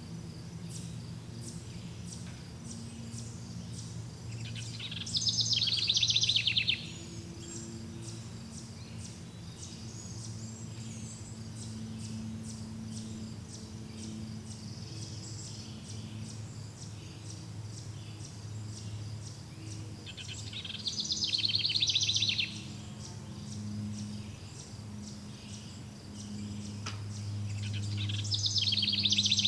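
Forest ambience: a songbird sings three loud, rapid trilled phrases of a couple of seconds each, spaced well apart, over steady fast chirping of insects and a faint low hum.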